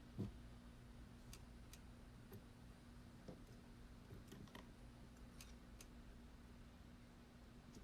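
Near silence: a steady low electrical hum with a few faint, scattered clicks, the loudest a soft knock about a quarter of a second in.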